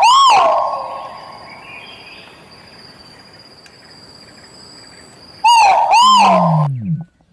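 Bird calling loudly: a pair of rising-and-falling notes at the start and another pair about five seconds in, with a faint steady high-pitched tone between them and a lower falling note near the end.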